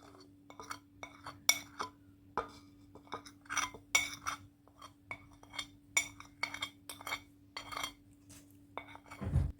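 A spoon clinking lightly and irregularly against bowls and spice containers as ground spices are spooned onto raw chicken, with a faint steady hum underneath and a soft thud near the end.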